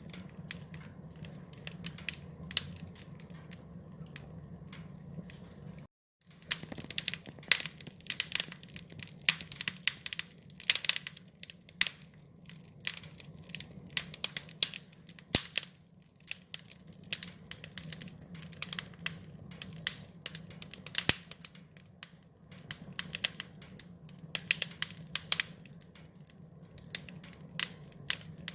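Wood fire crackling: irregular sharp pops and snaps over a steady low rumble of the flames. The sound cuts out for about half a second some six seconds in, then the crackling resumes.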